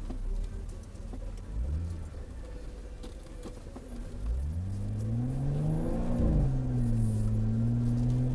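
Jeep Wrangler JK's V6 engine running low for the first few seconds, then revving up about four seconds in; the pitch climbs, peaks, dips briefly and settles into a steady, louder pull.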